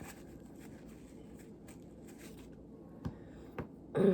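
Faint rustling and light handling noises, with two short clicks about three seconds in. A voice starts right at the end.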